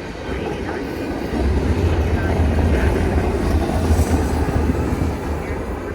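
Freight train rolling past on CN's Halton subdivision: a steady rumble of wheels on rail that swells about a second and a half in and eases slightly near the end.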